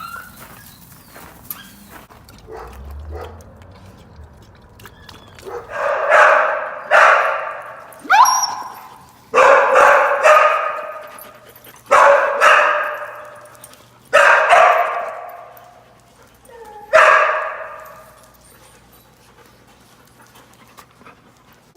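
A dog barking loudly, about eight sharp barks spread over a dozen seconds, each ringing on with a long echo as in a hard-walled room.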